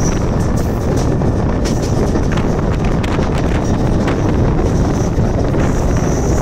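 Mumbai suburban electric local train running at speed, its steady rumble and rail noise heard under heavy wind buffeting on the microphone, which is held out of the moving coach.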